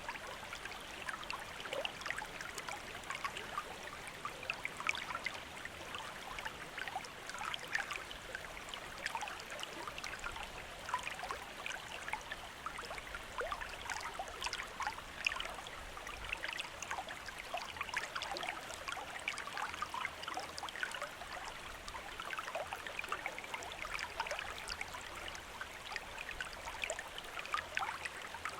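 Shallow stream running over stones, a steady flow with many small splashes and burbles.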